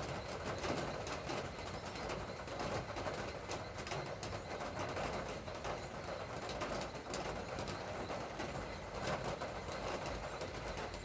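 Light rain falling steadily, a constant patter of drops with many small sharp ticks.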